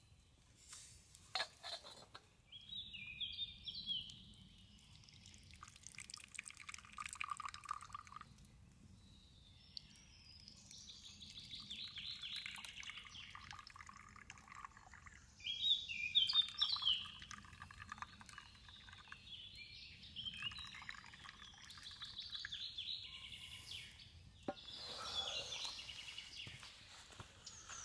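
Songbird singing short phrases of quick notes that step downward in pitch, repeated every few seconds, over a faint steady low rumble.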